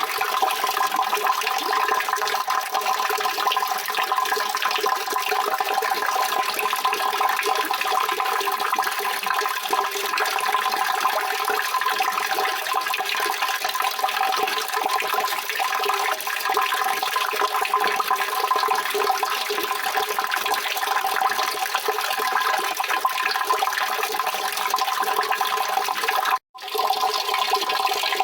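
Steady rushing, splashing water, even and unchanging, which cuts out for a split second near the end before resuming.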